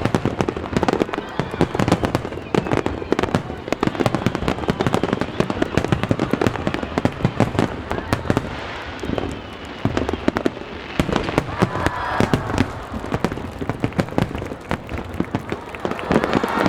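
Aerial fireworks going off in a rapid, continuous barrage of bangs and crackles, with many shells bursting close together.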